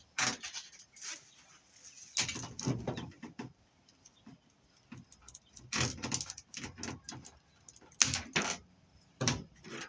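Scrap metal being handled, with bursts of clinking and scraping in a handful of clusters a second or two apart. This fits the steel and aluminum armor of BX cable and its copper wire being worked.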